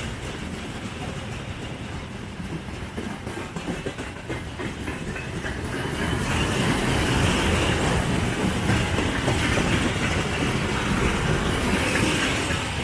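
Freight train rolling past, the wheels clacking over rail joints in a steady stream of clicks; it gets louder about halfway through as the cars come closer.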